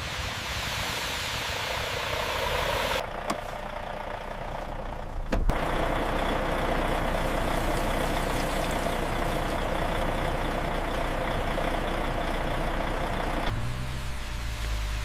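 A big truck's engine and road noise, a steady rumble with hiss. Its character changes abruptly about 3 s, 5.5 s and 13.5 s in, as at cuts between shots.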